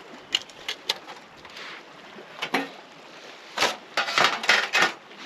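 Camping gear being handled while packing up camp: scattered knocks and clinks, then a quick run of louder clatters near the end.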